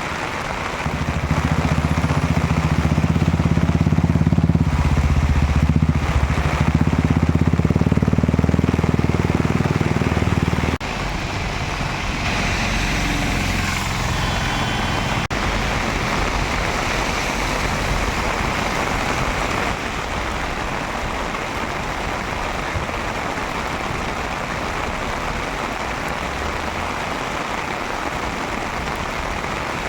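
Heavy rain pouring down with a steady hiss. For about the first ten seconds a motor vehicle's engine runs loudly over it, then cuts off suddenly.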